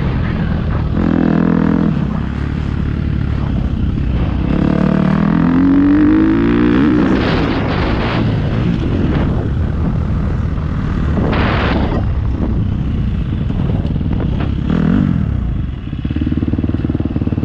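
Motocross bike engines revving on the track, rising in pitch under throttle about a second in and again midway, then settling to a steadier engine note near the end.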